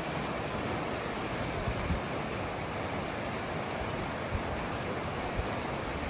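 Steady rush of fast-flowing river water, with a few brief low bumps of wind on the microphone.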